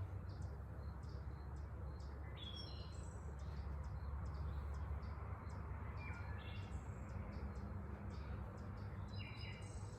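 Birds chirping in short, scattered calls, several short chirps every few seconds, over a steady low hum.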